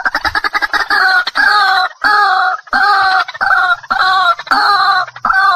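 White-breasted waterhen (ruak-ruak) calling, as played for a bird lure: a quick run of short notes that merges into loud, harsh calls repeating roughly twice a second.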